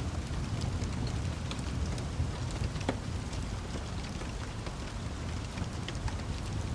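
Steady rain mixed with the scattered pops and crackles of a wood fire, over a continuous low rumble.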